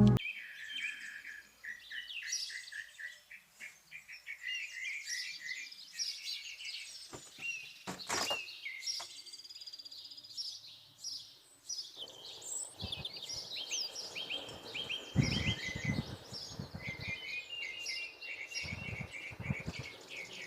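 Several small birds chirping and singing, with many short, high calls overlapping throughout. A sharp knock comes about eight seconds in, and in the second half there is a faint low rumble with a few soft thumps.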